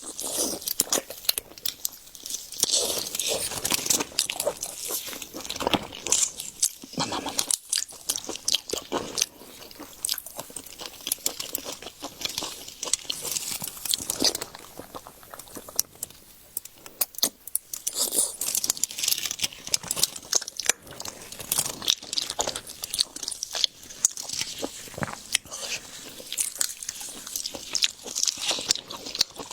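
Close-miked eating of seafood: continuous chewing and biting with many quick, irregular wet clicks and crunches.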